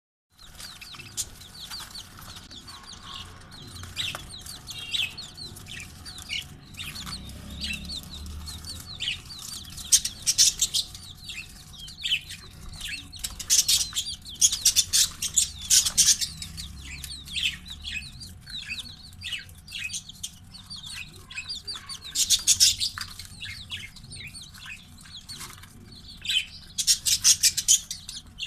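Baby chicks peeping continuously, with many short, high cheeps falling in pitch. Several louder, scratchy bursts of rustling cut in four times along the way.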